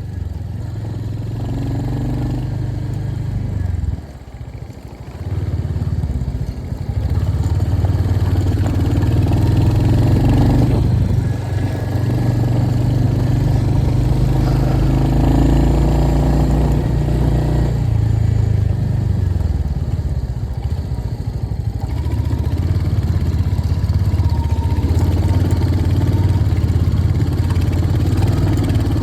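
Royal Enfield Hunter 350's single-cylinder engine running while the bike is ridden. The revs drop briefly about four seconds in, then it pulls again, with the engine note rising and falling as the throttle changes.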